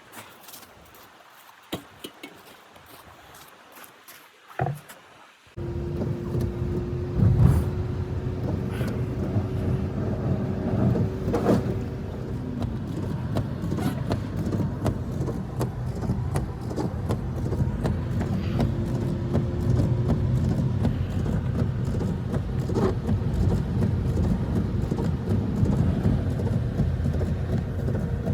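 A few faint clicks and a knock, then an engine starts running suddenly about five and a half seconds in and carries on steadily, with a faint whine that rises slightly near the end.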